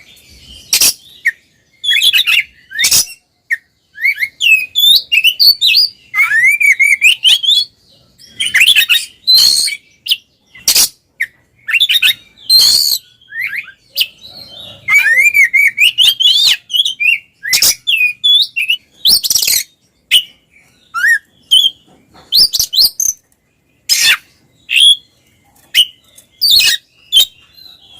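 Oriental magpie-robin in loud, full song: quick varied phrases of rising and falling whistles mixed with sharp, harsh notes, broken by short pauses.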